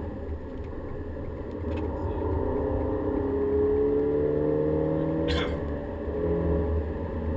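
Volkswagen Golf GTI engine accelerating, heard from inside the cabin over steady tyre and road rumble, its pitch rising steadily for a few seconds and then falling away about six seconds in. A short bump about five seconds in.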